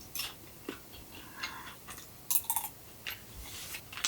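Close-up eating sounds from crisp-skinned roast chicken: a handful of short crunches and clicks, unevenly spaced, as the chicken is pulled apart and chewed.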